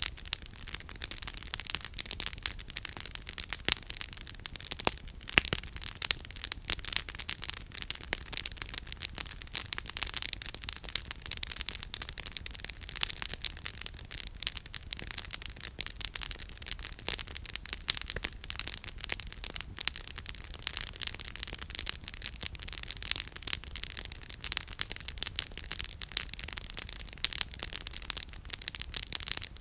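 Campfire firewood crackling: a steady stream of irregular sharp pops and snaps, with a few louder cracks standing out.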